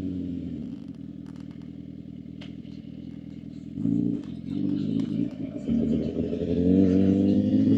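Suzuki GSX-R750's inline-four engine running at low revs for the first few seconds, then the throttle opens about four seconds in and the engine pulls harder, its pitch rising near the end.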